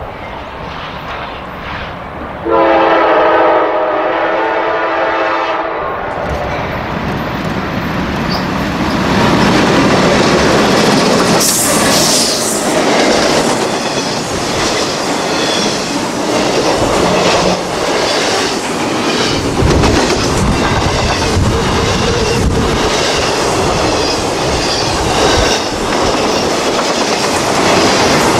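A freight locomotive's horn sounds one long chord from about two and a half seconds in to about six seconds. The intermodal freight train then rumbles past close by. The truck-trailer cars follow, their wheels clicking steadily over the rail joints.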